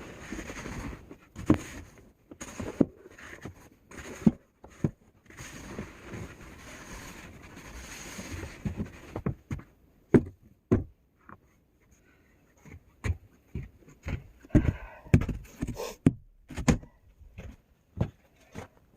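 Scraping and irregular thuds in heavy, wet snow. Longer scrapes come in the first half, and a quick run of thuds follows a short lull near the end.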